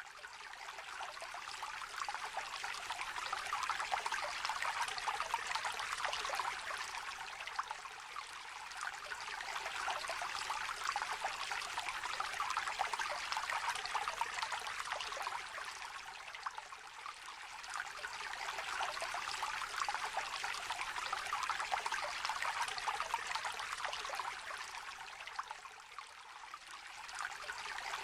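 Shallow stream trickling and babbling over stones: a continuous bubbling rush of water that swells and eases gently every several seconds.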